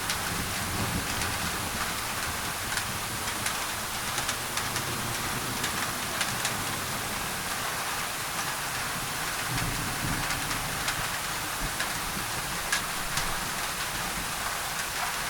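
Steady rain on a thin tin roof, with single drops ticking sharply on the metal over an even hiss of added white noise. Low rumbles of thunder swell briefly near the start and again about ten seconds in.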